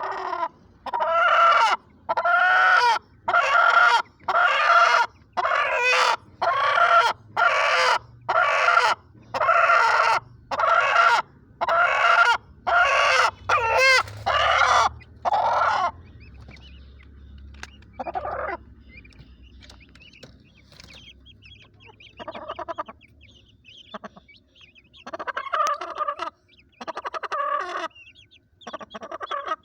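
A Cheena Aseel chicken calls loudly and repeatedly, about once a second, for roughly the first half. After that come quieter, scattered calls with pauses between them.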